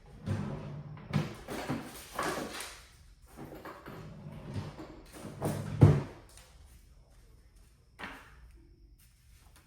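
Irregular clattering and rustling of hard parts being handled, with a sharp knock just before six seconds in and a short scrape about two seconds later.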